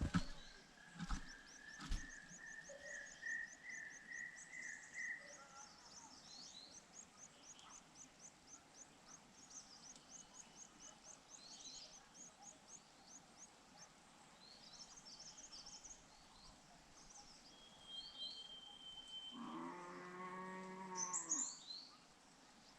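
Small birds calling in a rapid series of short, high chirps, about four or five a second, over a lower rising trill in the first few seconds. Near the end there is a brief steady whistle, followed by a low, drawn-out call.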